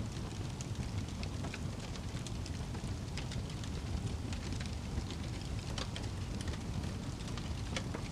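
Wood logs burning in a fireplace: a steady low rumble of flames with irregular sharp crackles and pops throughout.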